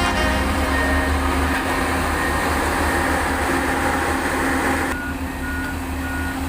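Heavy road-construction machinery engine running steadily with a low hum, while a back-up alarm beeps; the beeping turns into a regular, evenly spaced series near the end.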